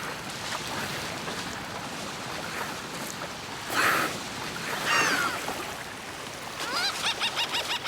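Ocean water rushing steadily. There are a few high, rising and falling whistles about five seconds in, and near the end a quick run of repeated chirping whistles, typical of dolphins calling.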